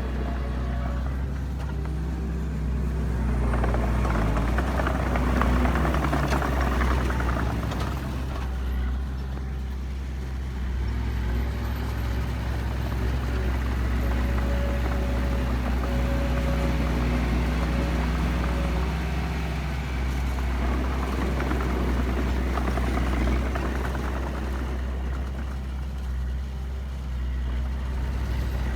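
Heavy diesel engine of earth-moving equipment running under load, its pitch shifting up and down as the machine works. Two stretches of rougher, noisier sound rise over it, about three seconds in and again about twenty seconds in.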